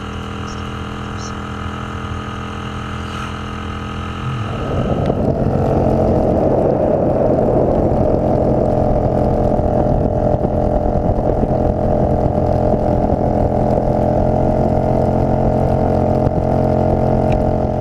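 Kasinski Mirage 250's V-twin engine running steadily on the road, with wind noise on the rider's microphone. About four seconds in, the wind noise grows much louder as the bike picks up speed, and it all cuts off abruptly at the end.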